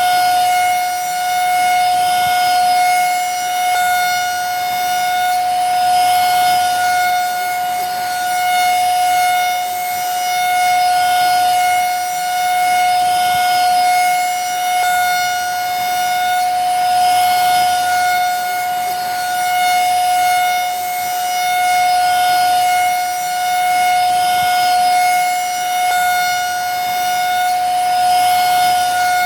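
Vacuum cleaner motor running continuously with a steady high whine and a hiss of airflow beneath it. The level swells and eases slightly about every two seconds.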